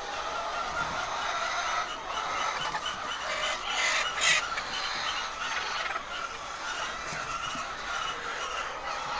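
A large flock of laying hens clucking and calling over one another in a steady chorus, with a couple of louder calls about three and a half and four seconds in.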